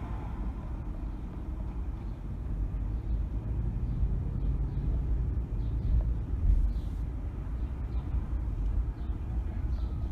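A car driving: a steady low rumble of engine and tyre road noise, swelling slightly in the middle.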